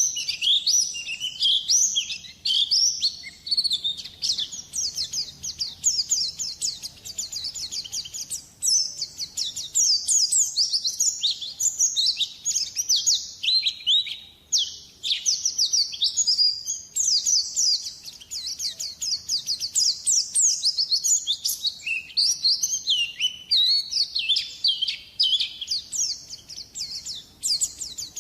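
White-eye (pleci) song: a long run of rapid, high twittering chirps and trills with no pauses.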